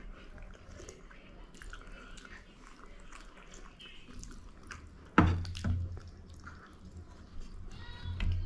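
Close-miked chewing and mouth sounds of people eating steamed chicken momo dumplings, with many small clicks. A sharp thump about five seconds in is the loudest sound.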